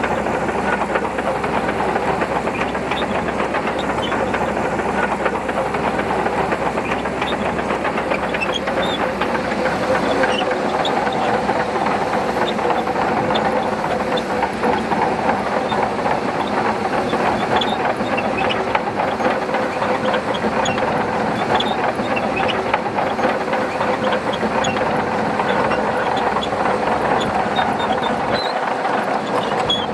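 Shantui crawler bulldozer working: its diesel engine runs steadily under load while the steel tracks clatter with many small rapid clicks.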